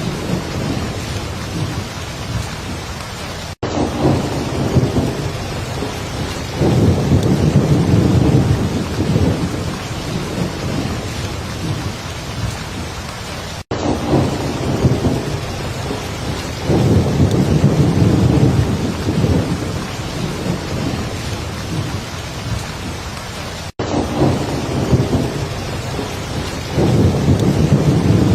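Heavy rain falling steadily, with low rumbling swells rising several times under the hiss. Three very short drop-outs about ten seconds apart break the sound.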